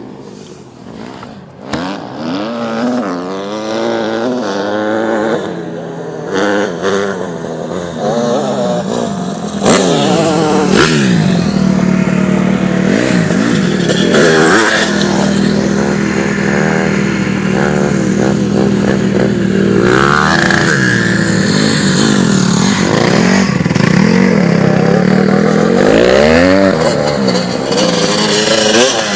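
Dirt bike engines running and revving, the pitch rising and falling again and again; they get louder about ten seconds in and keep up a steady drone with repeated swells of throttle.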